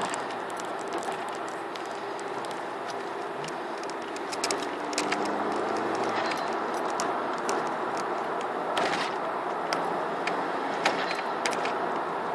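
Mk4 Golf GTI's turbocharged 1.8T engine with the N249 diverter-valve solenoid bypassed, running and pulling up in pitch about four to six seconds in, with light clicking rattles throughout. A short rushing hiss comes about nine seconds in, typical of the diverter valve venting boost.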